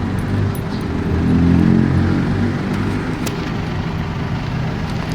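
Truck engine running, its note swelling a little about a second in and then easing back.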